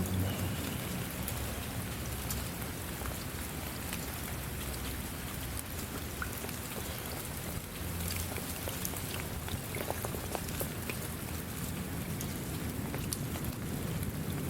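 Steady rain falling: an even hiss scattered with many sharp drop taps over a low rumble.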